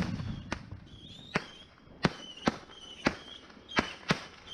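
Firecrackers going off, a run of sharp irregular pops about two a second, the loudest right at the start.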